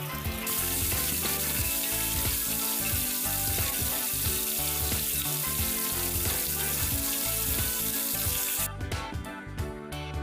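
Flour-and-cornstarch-coated chicken pieces deep-frying in hot oil with a steady, dense sizzle that stops abruptly about eight and a half seconds in.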